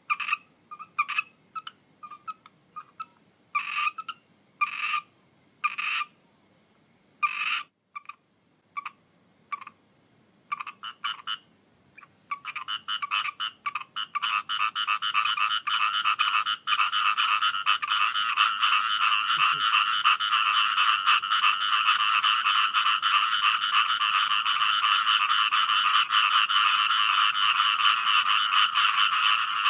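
Frogs croaking: separate, spaced calls for the first twelve seconds or so, then many frogs calling together in a dense, continuous chorus.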